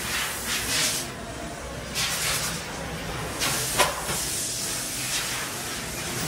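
Hissing that comes in several surges, with a sharp click about four seconds in.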